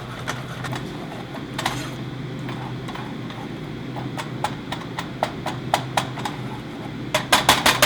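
Utensil knocking against cookware: scattered single sharp knocks, then a fast run of about seven a second near the end.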